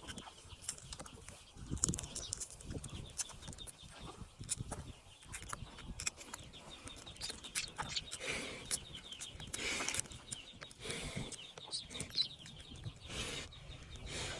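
Duckling peeping rapidly and repeatedly, with scattered sharp clicks and a few short scraping, rustling bursts.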